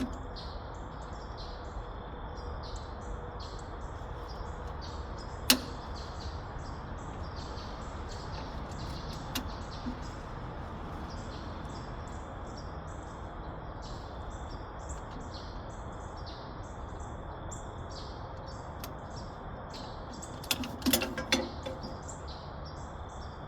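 Outdoor ambience: a steady low rumble under a run of high, quick chirps. There is one sharp click about five and a half seconds in and a short clatter of knocks near the end.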